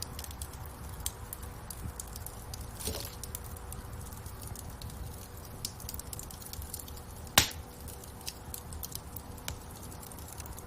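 Wood fire crackling in a fireplace: scattered small sharp pops and snaps over a low steady rumble, with one much louder snap about seven seconds in and a brief hiss around three seconds in.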